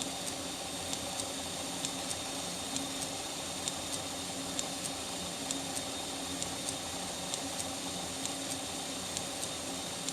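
2x72 belt grinder running steadily at its slowest speed. Its electric motor hums under a light hiss from the belt, with a faint tick repeating about twice a second.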